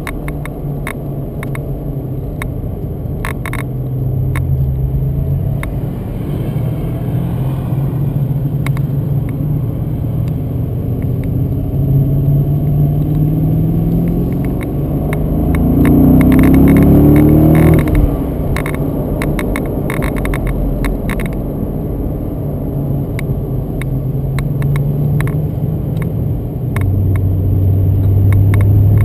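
BMW Z8's V8 engine, heard from inside the car while driving, its note rising and falling as the car is driven through bends. It revs up with a rising pitch to its loudest a little past halfway, then drops off sharply, and builds again near the end.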